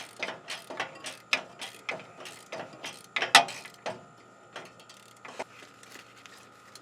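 Ratchet wrench clicking in quick, even strokes, about four a second, as a starter mounting bolt is backed out. A louder clack comes about three and a half seconds in, after which only a few scattered clicks follow.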